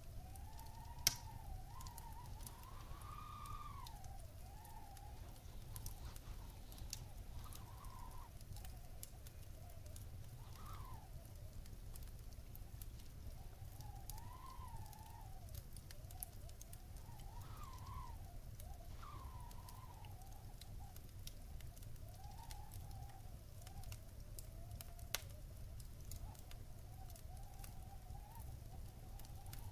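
Wood fire in a fireplace crackling steadily, with many small clicks, a low rumble and two sharper pops, about a second in and near the end. Behind it a faint wavering tone slides up and down.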